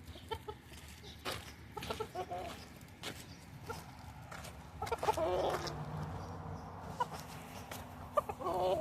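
Rooster clucking in short wavering calls, with a longer, louder run about five seconds in and another near the end. A few sharp knocks sound between the calls.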